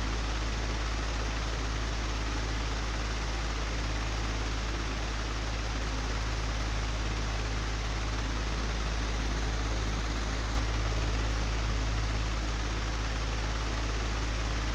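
Old electric fan running steadily: an even rush of air over a deep motor hum, with a single click about ten seconds in.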